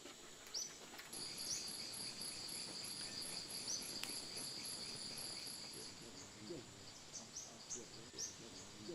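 Faint insects chirping: short high chirps repeat about once a second, and a continuous high trill comes in about a second in and stops about six seconds in.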